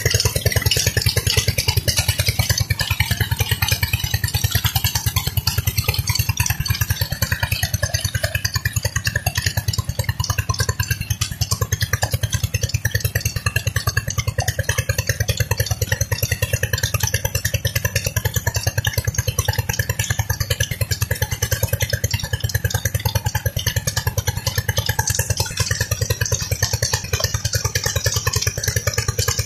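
Petter stationary diesel engine running a tube-well pump, holding a steady, even rapid beat.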